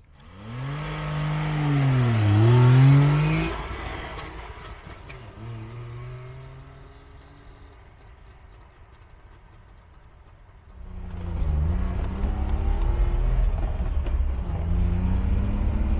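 Wartburg 311's three-cylinder two-stroke engine pulling away, its note rising, dropping at a gear change and rising again, loudest about three seconds in, then fading into the distance. From about eleven seconds in, the same engine is heard from inside the cabin while driving, with a low rumble, its pitch dipping at a gearshift and climbing again.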